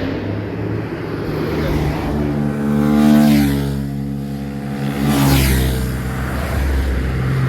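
A car passing at speed on a winding road, its engine revving hard under acceleration. It is loudest about three seconds in and again about five seconds in.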